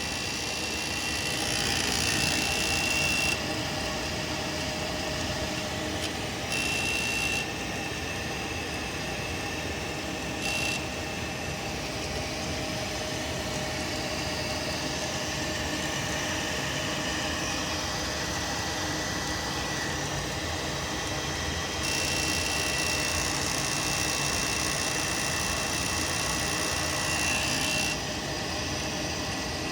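A running natural gas furnace with a buzzing rattle that comes and goes: short bouts near the start and a longer one in the second half, over the steady running noise. The owner traces it to a device on the furnace, with the buzz resonating through the attached pipes.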